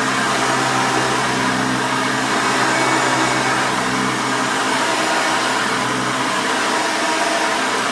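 A 1989 Hoover Elite 350 upright vacuum cleaner running steadily: an even rushing of air over a constant motor hum.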